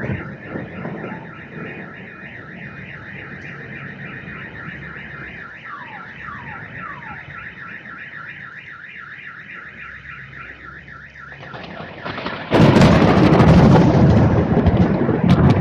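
Car alarm sounding a rapid, evenly repeating electronic tone while a low thunder rumble dies away. About twelve seconds in, a sudden loud crash of thunder breaks in and drowns it out.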